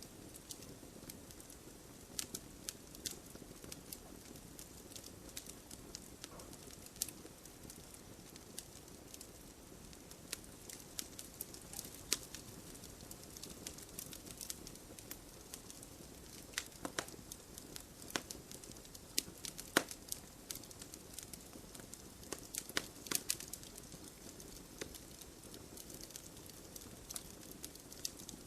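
Wood fire burning with a soft steady hiss and irregular crackles and pops, a few sharper pops standing out now and then.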